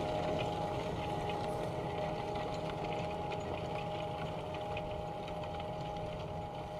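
Fendt 936 Vario tractor engine running steadily under load while working the field, with a faint steady whine over the engine note.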